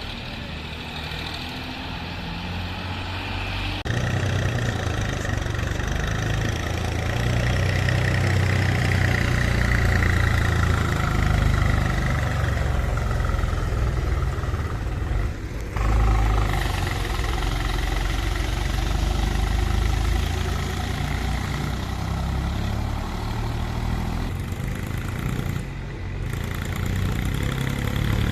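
Tractor engine running, growing louder and heavier about four seconds in, with a brief dip and surge around the middle.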